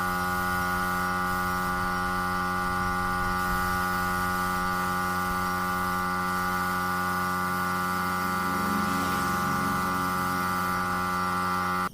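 Steady electric hum made of several fixed tones, unchanging, that cuts off suddenly at the end.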